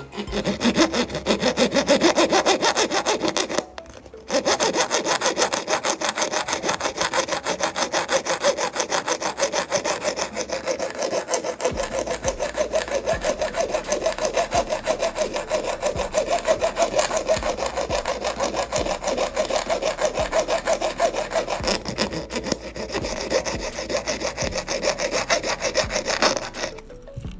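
Sawing: rapid back-and-forth strokes, stopping briefly about four seconds in, then carrying on.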